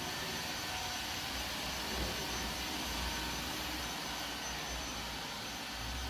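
Robot vacuum running with a steady whir from its suction fan and a faint high whine.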